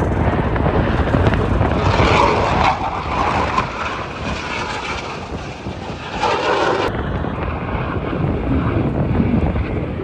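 Aerobatic display aircraft's engine noise, swelling about two seconds in and again past six seconds, under heavy wind rumble on the microphone.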